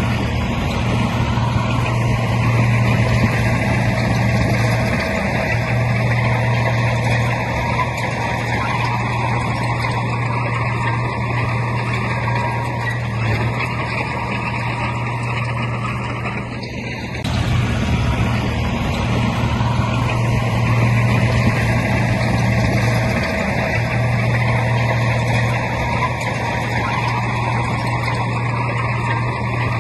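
Heavy earthmoving machine's diesel engine running steadily with a deep, constant drone. There is a short dip and an abrupt change in the sound about seventeen seconds in.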